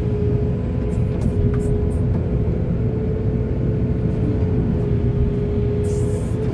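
Excavator's diesel engine running steadily, with a steady whine over the low rumble and scattered light clicks.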